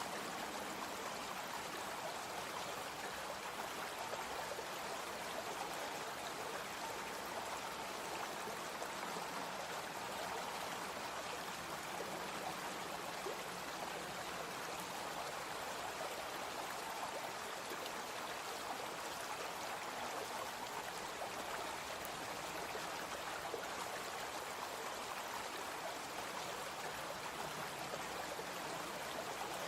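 Brook flowing steadily, its water babbling and rushing with an even, unbroken sound.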